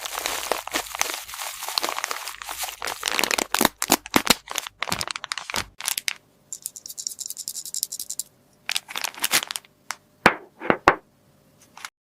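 Plastic toy packaging crinkling and tearing as it is opened, followed by a few sharp clicks of small hard plastic toy pieces near the end.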